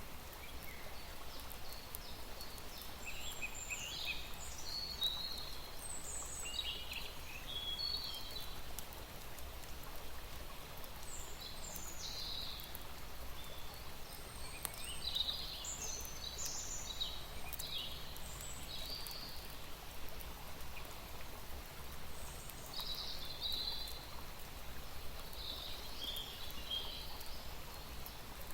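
Small birds singing short chirping phrases again and again over a steady low rumble of outdoor background noise.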